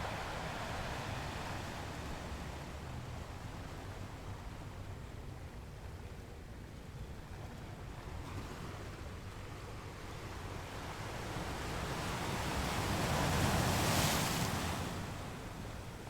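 Ocean waves washing on a shore, a steady rushing that builds to one louder breaking wave near the end and then falls away.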